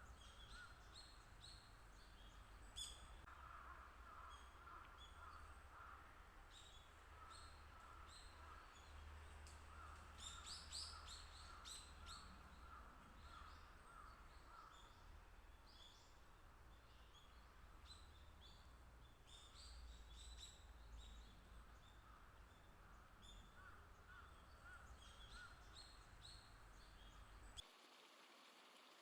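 Faint wild birds calling: scattered short high chirps and runs of quick repeated notes, over a steady low rumble that cuts off abruptly near the end.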